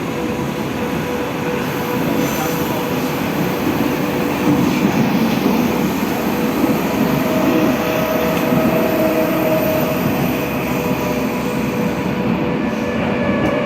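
Moscow metro train running: a steady rumble with a constant whining tone, and a second, slightly higher tone joining for a few seconds around the middle.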